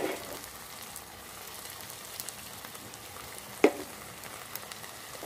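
Onion and tomato masala with turmeric powder sizzling in oil in a wok: a steady frying hiss with small crackles, and one sharp knock about three and a half seconds in.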